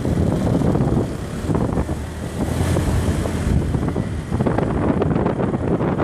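Motorbike on the move: wind buffeting the microphone, with the bike's engine and road noise running underneath.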